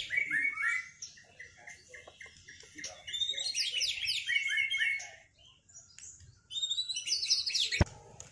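White-rumped shama singing in three bursts of rapid, high repeated notes with short pauses between, and a sharp click near the end.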